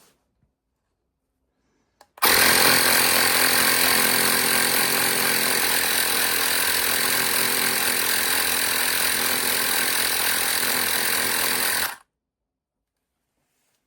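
CYCPLUS portable electric air pump's small motor-driven piston compressor running. It switches on abruptly about two seconds in, runs steadily for about ten seconds, then cuts off suddenly.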